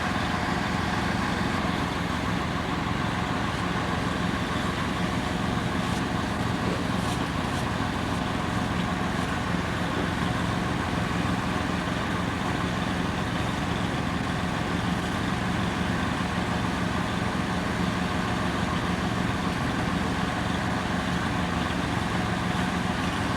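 Gasoline snowblower engine running steadily at a constant pitch while clearing deep snow.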